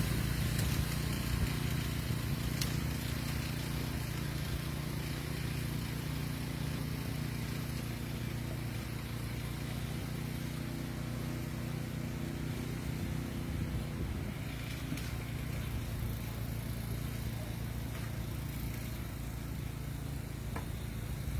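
An engine running steadily with a low hum; its upper tones fade about two-thirds of the way through.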